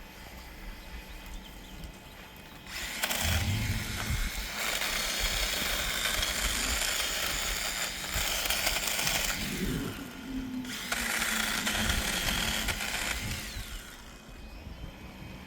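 Electric chainsaw running in two long stretches, starting about three seconds in, with a brief drop near ten seconds in.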